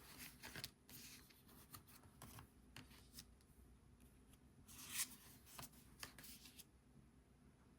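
Tarot cards being shuffled and handled: faint, scattered rustles and clicks, with a louder brief swish about five seconds in.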